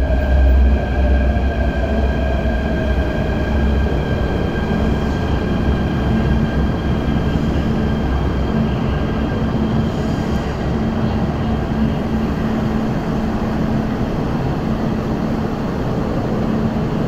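An MTR Tung Chung Line electric train pulling out and running past at close range. Its wheels rumble on the rails, echoing in the enclosed track area, and a high whine from the train fades out about halfway through.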